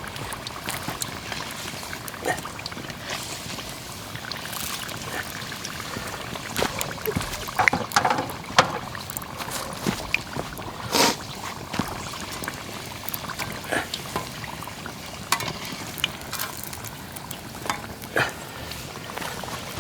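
Oil heating in a pan over a campfire: a steady hiss with scattered sharp crackles and pops.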